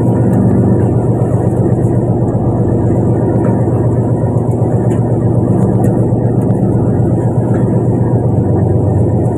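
A fishing boat's engine running steadily: a loud, even, low drone with no change in speed.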